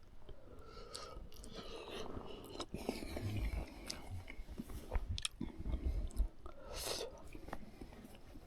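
A person chewing and biting into grilled sausages, with irregular small clicks and crunches.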